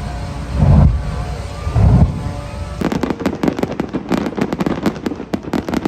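Fireworks: two deep booms of bursting shells, then, about three seconds in, a dense rapid crackle of many small cracks.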